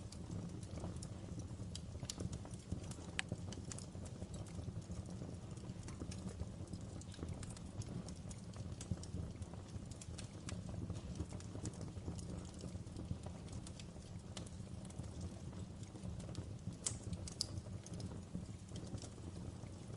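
Fire burning in a fireplace: a steady low rumble with irregular sharp crackles and pops scattered through it.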